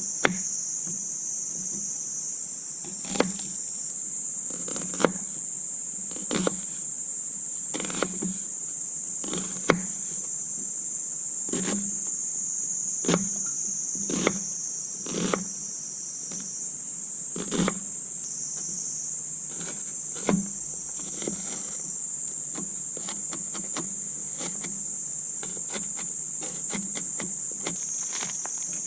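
Insects chirring in a steady high-pitched drone, with sharp clicks or snaps every second or two.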